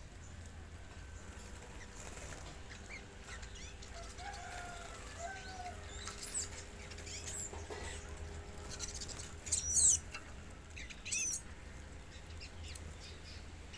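A bird calling: scattered short chirps and whistles, with louder quick high-pitched calls about ten and eleven seconds in.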